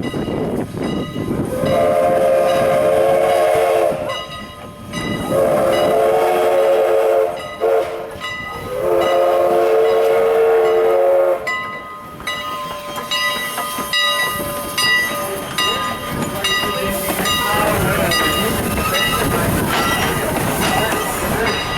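Steam locomotive whistle sounding three long blasts, each about two and a half seconds. After the blasts the train runs on, with repeated ringing metallic tones over the running noise.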